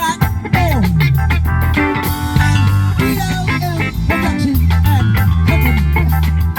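A band playing: guitar lines with sliding notes over a steady bass guitar and a regular drum beat.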